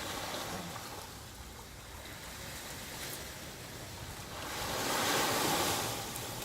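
Sea surf on a beach: waves washing steadily, with one wave surging up louder about two-thirds of the way through, then falling back.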